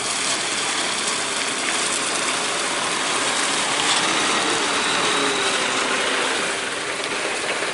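Vehicle running with a steady rushing, grinding mechanical noise that swells a little midway and eases near the end.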